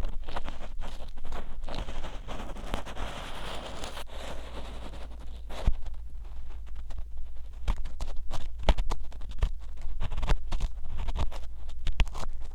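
An ear pick scraping and rubbing inside the silicone ear of a 3Dio binaural microphone. A dense scratchy rubbing comes first, then gives way to sharp, irregular clicks and scrapes.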